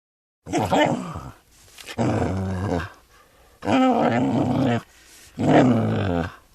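An animal giving four low, drawn-out calls, each about a second long, with short gaps between them.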